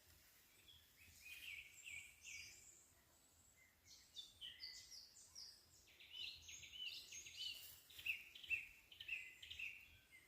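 Songbirds singing: quick runs of short, sweeping chirps, fairly faint, picking up and becoming busier from about the middle onward.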